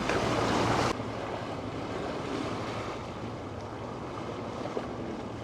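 Steady wash of water and wind noise aboard a sailing yacht, with a faint low hum underneath; it is a little louder for the first second, then settles.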